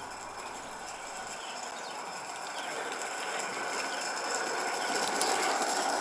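Live-steam model of an 1888 Sharp Stewart Darjeeling Class B locomotive hissing steadily as it is warmed up before a run, the hiss growing gradually louder.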